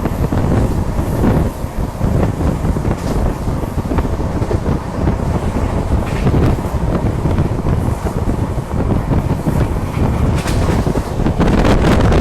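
Train running: a loud, steady low rumble with irregular clatters, with wind buffeting the microphone. It gets somewhat louder near the end.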